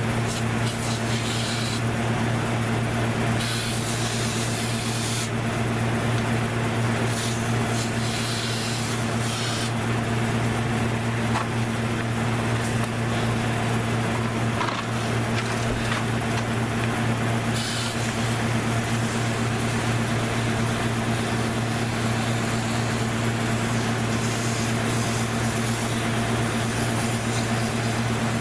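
A machine motor running steadily: a constant low hum with an even rushing hiss over it, whose high part swells and fades every few seconds.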